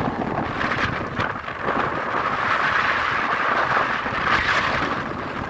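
A steady rush of wind and water around a boat under way.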